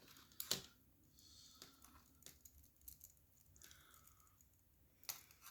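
Scattered small metal clicks and taps from a jeweller's screwdriver working at a watch bracelet's screws, the loudest a quick pair about half a second in, with a faint scrape a little before the end.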